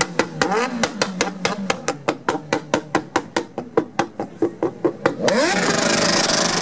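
Motorcycle engine being revved up and down, with a rapid run of sharp exhaust pops and bangs about four to five a second, then a sustained loud rev a little past five seconds in.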